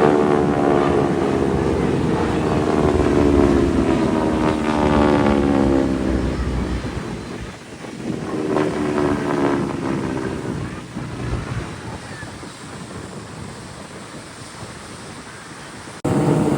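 Propeller aircraft engine droning as it flies past, its pitch falling, with a second falling pass a few seconds later. It then fades away under wind noise on the microphone.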